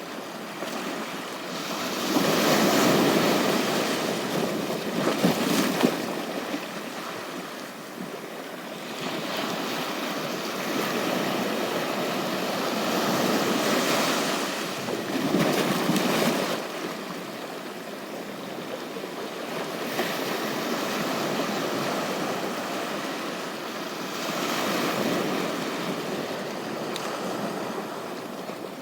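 Surf on a beach: waves breaking and washing up the shore, the noise swelling and fading every several seconds.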